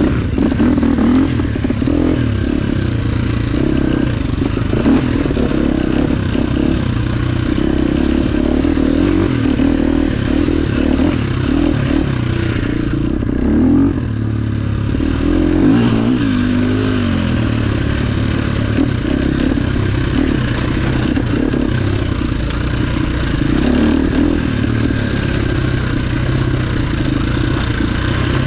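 Enduro dirt bike engine running continuously on a trail ride, its pitch wavering as the throttle changes, with a brief drop in level about halfway through.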